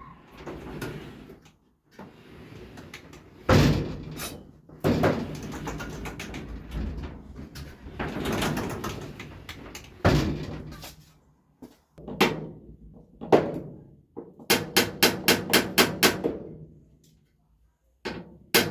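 Repair work on a jammed garage door: knocks and bangs as the door is handled and worked on, then a fast run of about a dozen sharp knocks near the end.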